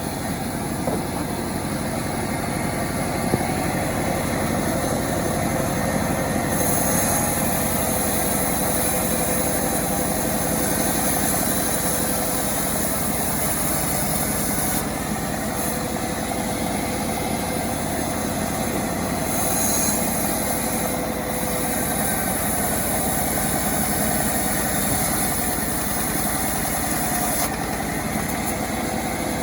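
Homemade chainsaw's small engine running steadily, with stretches where a harsher high hiss comes and goes.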